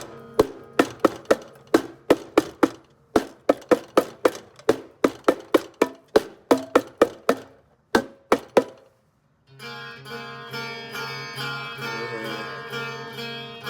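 Drums played solo: a run of sharp single hits, about three or four a second in an uneven pattern, stopping about nine seconds in. After a brief gap, backing music with steady held notes comes in.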